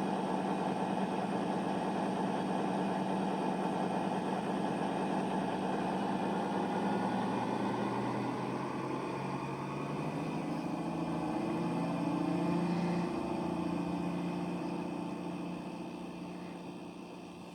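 CrossCountry Class 220 Voyager diesel multiple unit's underfloor engines running, their note shifting about halfway through, then fading away near the end as the train pulls away.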